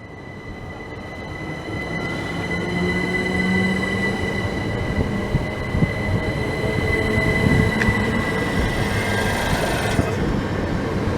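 A pair of coupled Class 379 Electrostar electric multiple units pulling out of the station, a steady high whine over rumbling wheel noise that grows louder over the first few seconds and then holds.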